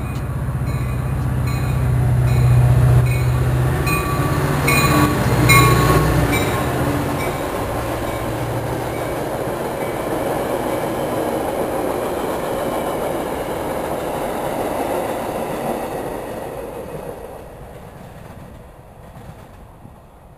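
Metra diesel commuter train passing close by. A low engine drone with regular clicking comes by in the first six seconds and is loudest there, then the bilevel passenger cars roll past with a steady rumble that fades away over the last few seconds.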